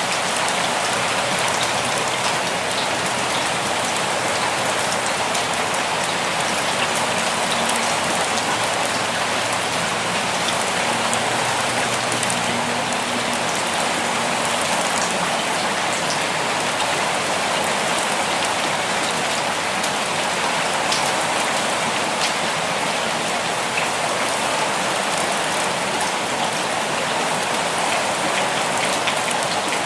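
Steady rainfall, an even hiss of rain on surfaces with the fine ticks of single drops scattered through it.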